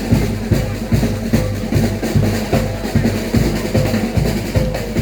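Live drumming, bass drum and snare beating a fast, steady rhythm.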